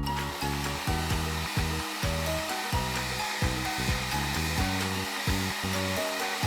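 Hair dryer blowing steadily, a constant hiss, over upbeat background music with a repeating beat.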